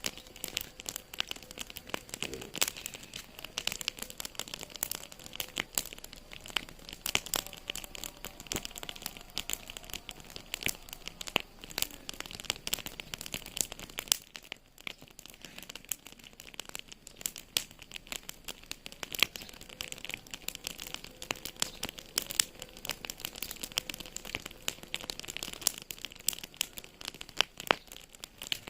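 Fireplace wood fire crackling: a dense, irregular run of small sharp snaps over a steady hiss.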